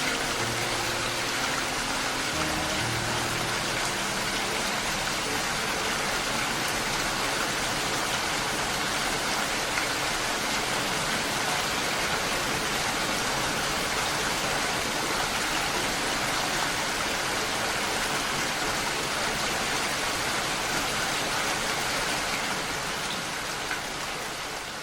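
Steady rain falling, an even hiss with no breaks, easing slightly near the end. Faint low music notes sound under it in the first few seconds.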